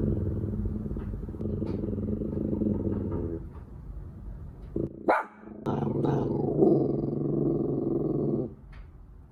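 Bichon Frise growling in two long, low growls, with a few short sharp yaps between them about five seconds in: a warning growl at a stranger in the house.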